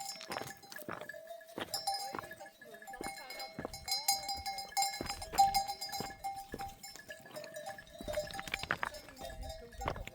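Livestock bells on a flock of sheep and goats, clanking and ringing irregularly as the animals move.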